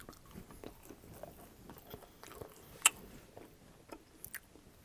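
Close-miked chewing of a mouthful of pepperoni pizza: soft wet mouth sounds and small crunches, with one sharp click about three seconds in.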